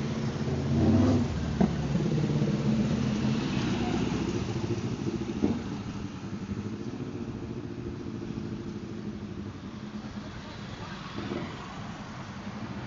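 A motor vehicle engine running, loudest in the first couple of seconds with a sharp click, then fading to a steadier, quieter drone.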